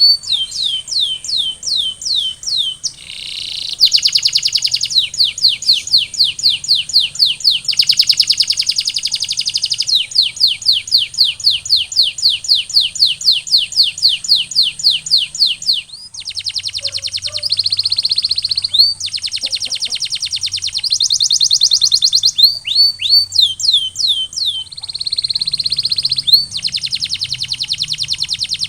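Male domestic canary singing a continuous rolling song: rapid trills of repeated high notes, switching from one trill type to another every second or two. A thin steady high tone runs underneath.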